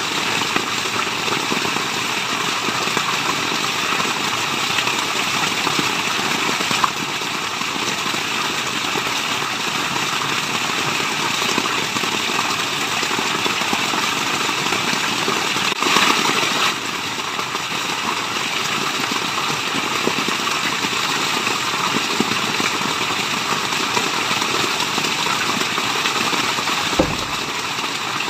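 Steady rush of a waterfall, an even hiss of falling water, with a brief louder surge a little past halfway.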